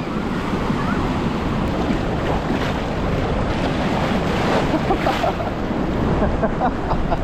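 Ocean surf: waves breaking and washing steadily, with wind rumbling on the microphone.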